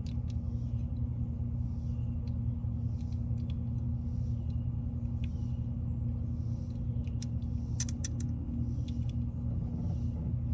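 An engine idling steadily, a low rumble with a constant hum, with a few light clicks and taps scattered through.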